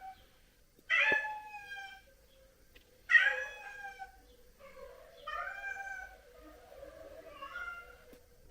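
A cat meowing four times, about two seconds apart. Each meow lasts about a second, and the second is the loudest.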